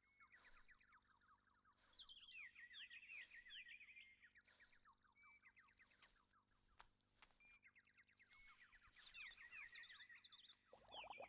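Faint birdsong: small birds chirping in quick repeated phrases of short falling notes, over a low steady hum. Near the end a hen starts clucking, louder than the birds.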